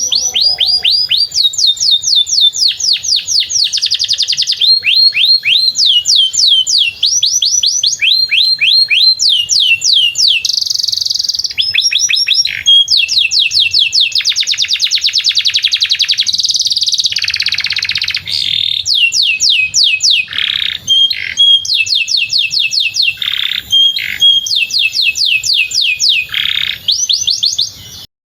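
Domestic canary singing a long, unbroken song of fast trills and rapidly repeated high chirping notes. It cuts off suddenly near the end.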